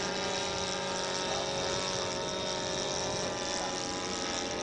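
Small model airplane engine running steadily, holding one pitch throughout.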